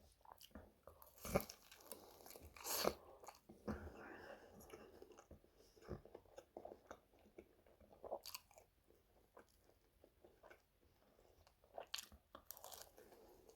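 Biting into and chewing crispy air-fried chicken drumsticks, the starch-coated skin crunching in irregular sharp bites between softer chewing.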